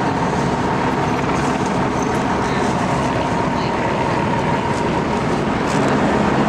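Heavy engine noise running steadily and loudly, with a low hum and a thin steady high tone over it.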